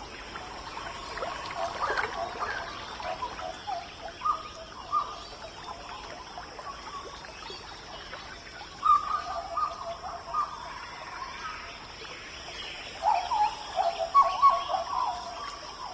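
Rainforest birds calling in phrases of short, quick notes that come and go, with the loudest bursts near the end, over a steady high-pitched drone.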